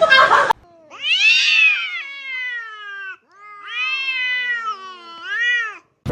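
A cat meowing: two long drawn-out meows, each rising then sliding down in pitch, the second ending in a short extra upward call.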